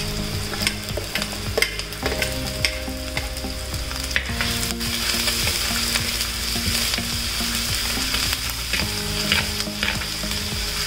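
Curry leaves, green chillies and ginger sizzling in hot coconut oil and popped mustard seeds, stirred round the pot with a steel spoon. The spoon's scrapes and taps make short clicks over the steady sizzle.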